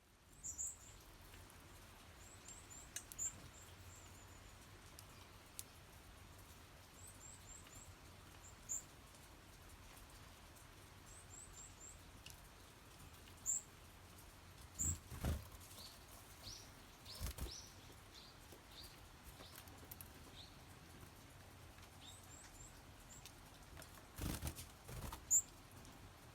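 Wing flutters of small birds, a varied tit and Eurasian tree sparrows, coming and going three times: about halfway through, a couple of seconds later, and near the end. Between the flutters come short, high, thin bird calls in clusters of two to four notes, and a run of separate notes in the middle.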